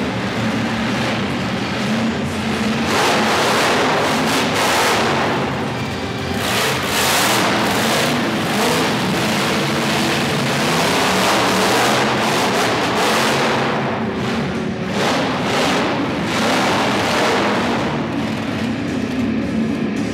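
Monster truck engine revving hard in repeated surges a few seconds apart during a freestyle run, with music playing underneath.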